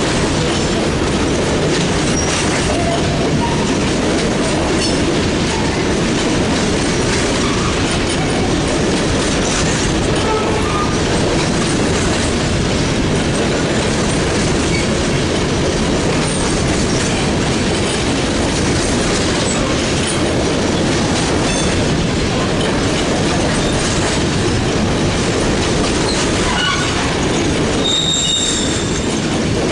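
Freight train cars rolling past, with steady wheel and rail noise. Brief high wheel squeals come and go, one standing out near the end.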